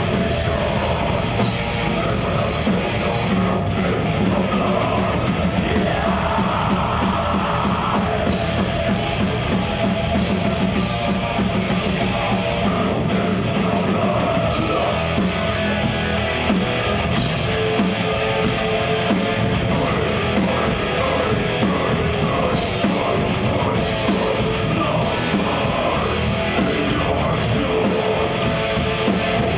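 Death metal band playing live, with distorted electric guitars, bass and a drum kit, loud and dense throughout.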